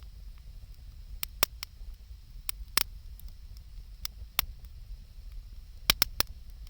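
Wood fire crackling: sharp, irregular pops and snaps from the burning wood, several close together near the end, over a low steady rumble.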